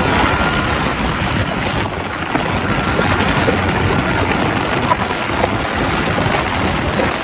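Suzuki GSX-R sportbike being ridden in second gear, its engine running under way with steady wind rush over the microphone.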